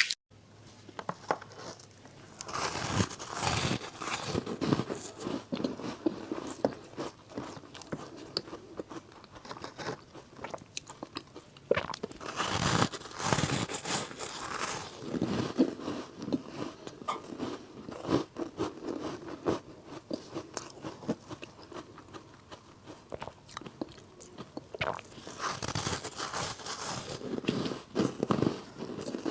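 Ice coated in matcha green tea powder being bitten and chewed close to the microphone: three big crunching bites, a few seconds in, near the middle and near the end, with steady smaller crunches of chewing between them.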